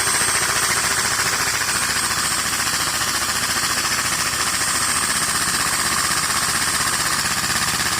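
Lego vacuum engine running fast, its plastic pistons and crank making a rapid, steady clatter.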